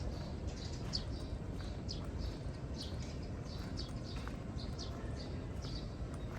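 A bird chirping over and over, short high chirps about twice a second, over a steady low rumble.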